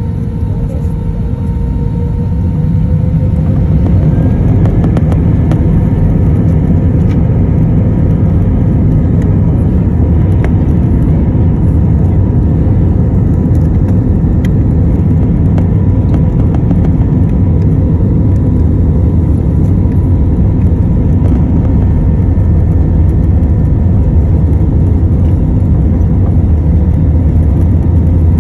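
Airbus A321-200's twin jet engines spooling up to takeoff thrust, heard from the cabin: a whine that rises slightly in pitch as the noise grows louder over the first few seconds, then a steady loud roar through the takeoff roll, with faint rattles along the way.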